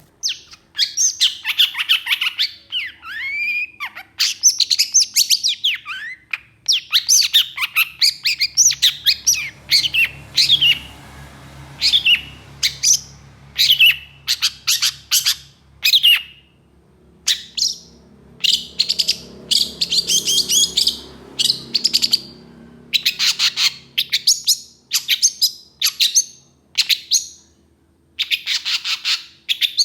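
Long-tailed shrike (cendet) singing in fast bursts of harsh, rapid-fire chattering notes mixed with gliding whistles, the phrases broken by short pauses.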